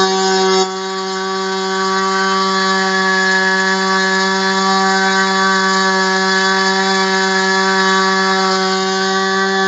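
ASP 25 two-stroke glow model engine with a 10x6 propeller running flat out on a test stand, a steady high-pitched buzz. The loudness drops suddenly about half a second in, then slowly builds back while the pitch holds steady.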